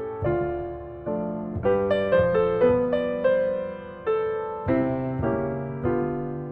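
Background piano music: a gentle melody of struck notes, each fading before the next.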